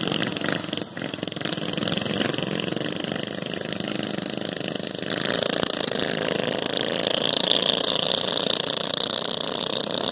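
Small minibike engine running, growing louder from about five seconds in.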